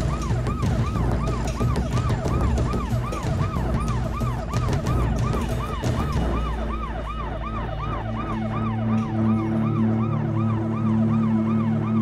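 Ambulance siren in a fast, regular rising-and-falling yelp over a low vehicle rumble. About halfway through, the rumble drops and a low sustained music drone comes in under the siren.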